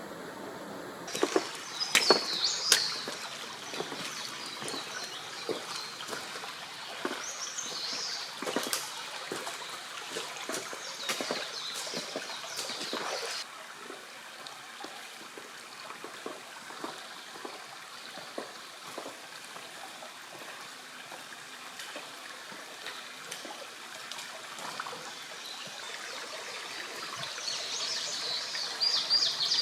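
A shallow stream running, with scattered sharp clicks and knocks throughout.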